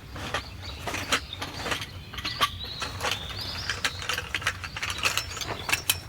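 Irregular sharp clicks and light knocks, with birds chirping.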